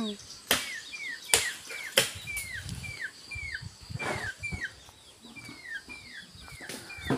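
A bird calling over and over, a short falling chirp two or three times a second, with a few sharp clicks in between.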